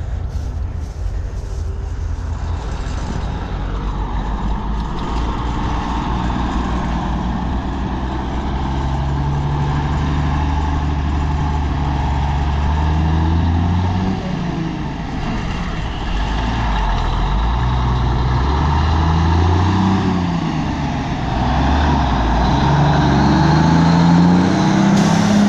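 Heavy diesel engine running under changing load, its pitch climbing over the first half, dropping about halfway through, then rising and falling repeatedly, and loudest near the end.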